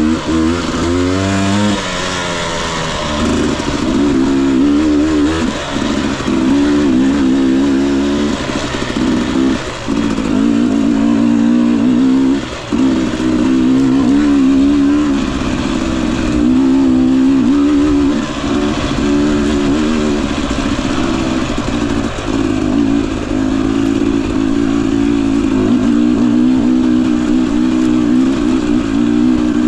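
Husqvarna TE 250i two-stroke dirt bike engine under way on the trail. Its pitch rises and falls with the throttle, with a few brief drops when the throttle is shut.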